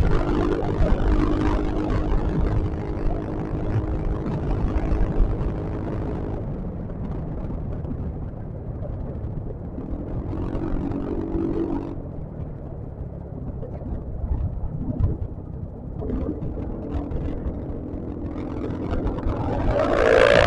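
Yamaha XMAX scooter running on the road, with a low rush of wind over the microphone; the engine note fades and returns a few times and grows louder and higher near the end as it speeds up.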